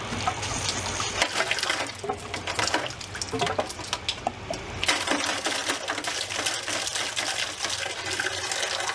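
Water flushed through a car's coolant lines pouring out and splashing, with a dense crackle of drops that gets fuller about halfway through.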